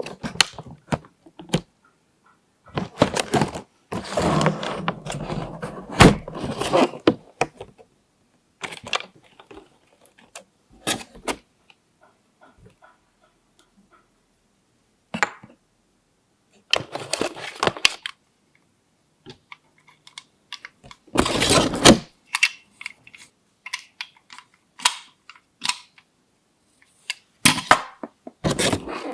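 Plastic toy pieces and packaging being handled and unpacked: scattered clicks, taps and rustling bursts, a few seconds at a time, with silent gaps between.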